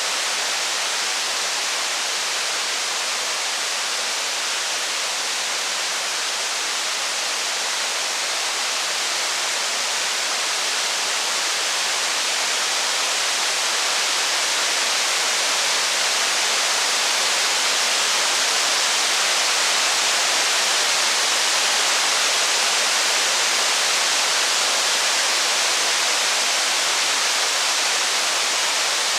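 Steady heavy rain, a dense even hiss with no single drops or crackles standing out, growing slightly louder about halfway through.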